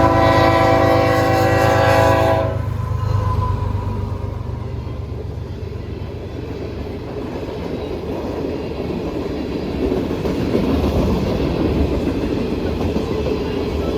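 Train horn sounding one steady chord that ends about two and a half seconds in, then the rumble and rolling of the train going by on the rails.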